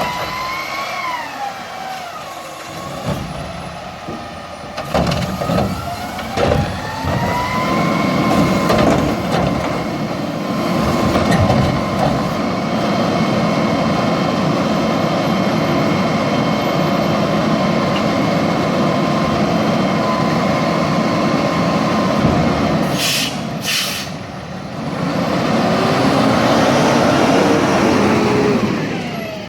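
Diesel garbage truck running hard, its engine pitch dipping and then climbing over the first several seconds before settling into a loud steady rumble under load. Two short air-brake hisses come about 23 seconds in.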